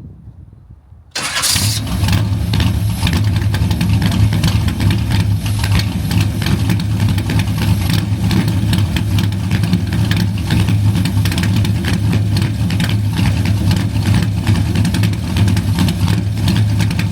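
Car engine with a new roller cam idling loudly and steadily, cutting in abruptly about a second in. It is running rough while its ignition timing is adjusted, shaking the whole car.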